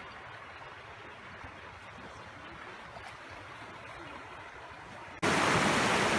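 Steady rush of a rocky trout stream; a little past five seconds in it jumps abruptly to a much louder, fuller rush of water, as of a cascade close by.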